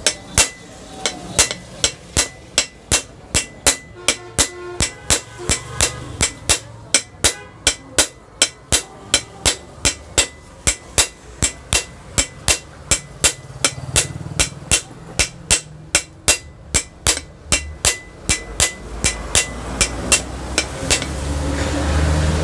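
Quick, light hammer taps, about three a second, on the back of a ceiling fan's body, driving the new ball bearing home into its seat. Near the end the taps thin out and a low rumble comes in.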